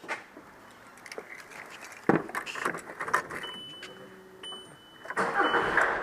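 Getting into a car and starting it: keys jangle and click, a loud knock about two seconds in like a car door shutting, a short high electronic beeping of the car's warning chime, then the engine starting near the end.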